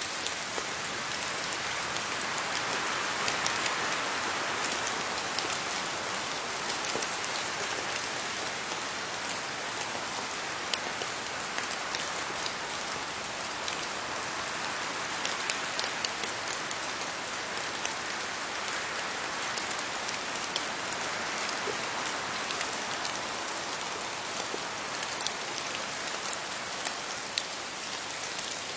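Steady rain falling on leaves, a continuous hiss dotted with the small ticks of individual drops, swelling gently now and then.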